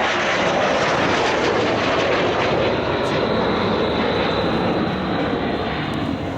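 Cessna A-37B Dragonfly's twin turbojet engines during a flypast: a loud, steady jet noise that eases slightly near the end.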